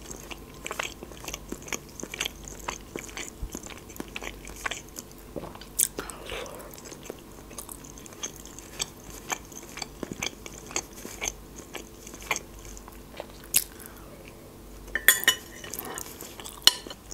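Close-miked chewing and wet mouth sounds of someone eating boiled pelmeni dumplings, with a metal fork clicking and scraping on a ceramic plate. A cluster of louder clicks comes near the end.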